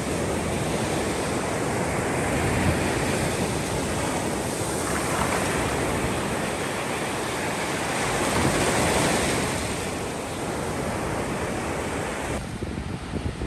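Ocean surf washing in, with wind buffeting the microphone. A wave swells louder about five seconds in and ebbs again, and near the end the sound cuts abruptly to a thinner, quieter wind hiss.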